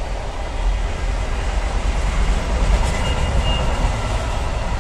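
Container freight train's loaded flat wagons rolling past: a steady rumble of wheels on the rails.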